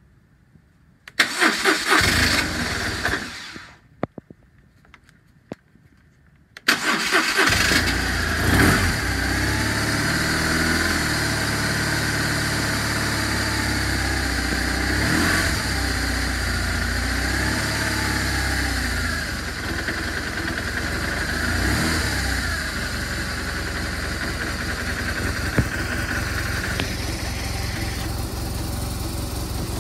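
2007 BMW R1200RT's boxer twin on the electric starter: a first attempt about a second in lasts about two seconds and dies away, and a second start about seven seconds in catches. The engine then idles steadily with a few brief rises in revs, running a little cold.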